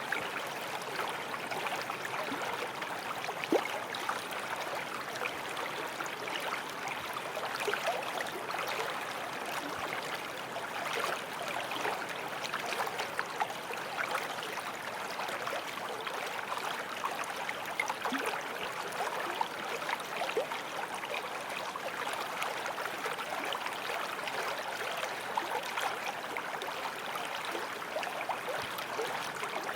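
Forest stream flowing and babbling over stones, a steady rush of water with small splashes and gurgles.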